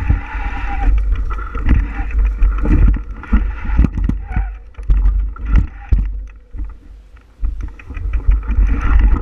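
Wind buffeting the microphone of a camera on a moving bicycle. The low rumble comes in gusts, with a hiss of tyre and trail noise and scattered knocks and rattles from bumps. It eases briefly a little past the middle.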